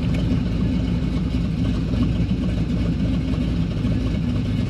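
Pontiac Trans Am's engine idling steadily through its exhaust.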